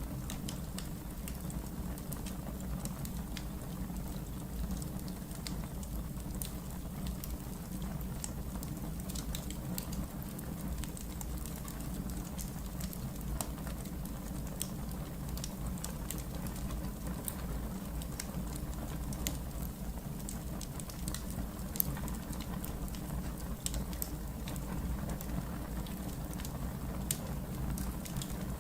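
Wood fire burning in a fireplace: frequent small crackles and pops scattered over a steady low rumble.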